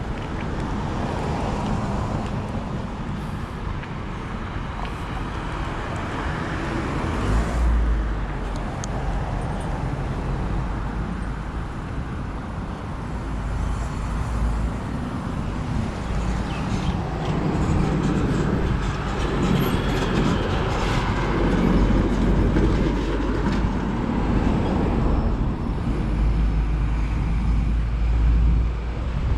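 Steady road-vehicle and traffic noise, with a heavy low rumble that swells and fades several times.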